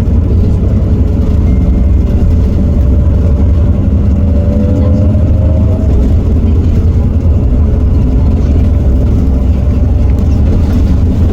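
Iveco Cursor 8 six-cylinder diesel engine of a Heuliez GX327 city bus running under way, a steady, loud, deep drone. A fainter whine rises a little in pitch around the middle and fades by about six seconds in.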